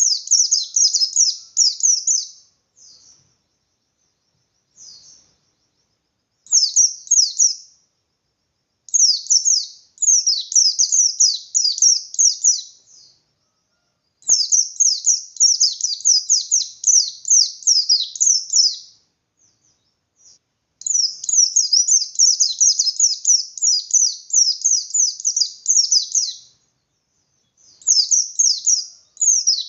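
White-eye (pleci) singing its fast, continuous 'ngalas' song: rapid runs of high, sharp notes in loud phrases lasting one to five seconds, broken by short pauses. This is a competitive song that is meant to provoke other white-eyes into answering.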